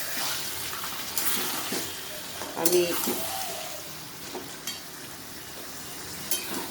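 Chicken pieces frying in spiced oil in a pan with a steady sizzle. A spoon scrapes and stirs against the pan a few times.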